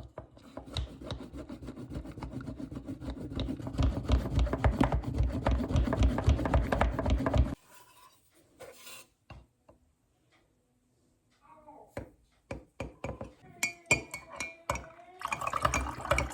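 Rapid, continuous rubbing and scraping of kitchen food preparation, growing louder and stopping suddenly about seven seconds in. Scattered clicks and a brief ringing clink of kitchenware follow near the end.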